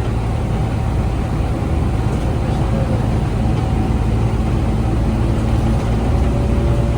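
Scania DC9 five-cylinder diesel engine of a Scania K250UB bus running steadily under way, heard from inside the bus. A faint whine sits above the low engine rumble.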